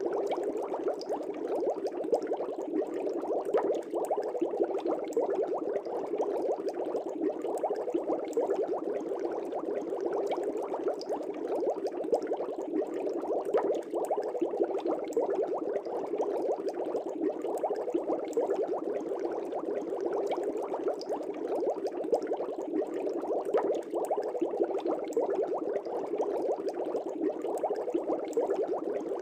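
Fish tank bubbles rising through the water: a steady, dense bubbling and burbling that does not let up.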